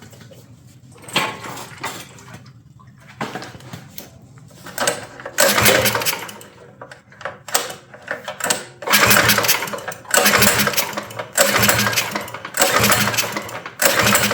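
Minibike's small gas engine being cranked by its recoil pull-starter, a string of repeated pulls that come close together in the second half. The engine turns over but never fires or runs.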